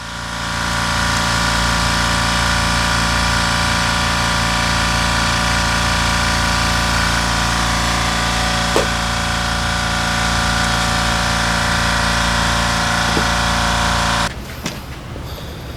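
Italjet Griffon GF125 motorcycle engine idling steadily at an even speed, running again on a freshly cleaned carburetor, then stopping abruptly near the end.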